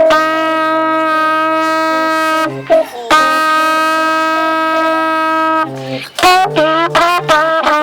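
A wind instrument played loudly: two long held notes, each about two and a half seconds, then from about six seconds in a quick phrase of short notes that bend in pitch.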